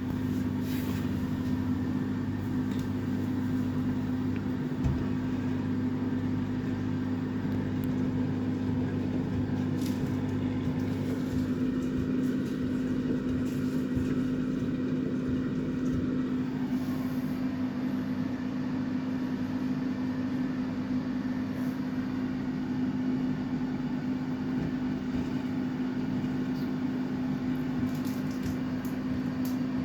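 Samsung WF806U4SAGD front-loading washing machine running, a steady mechanical hum with a constant tone.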